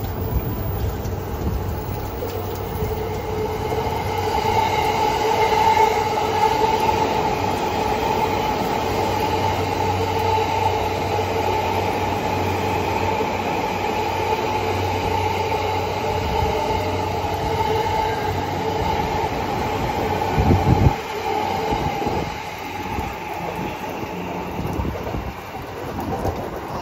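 Electric commuter trains running through the station, a Tokaido Line train on the far track and a Yamanote Line train alongside the platform, with a steady rumble of wheels on rail. A steady high whine runs from about four seconds in to about twenty-one seconds, where a sudden loud noise comes and the sound then drops.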